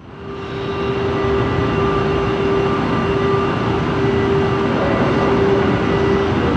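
São Paulo Metro train at a station platform: a steady rumble with a steady whine running through it, fading in over the first second.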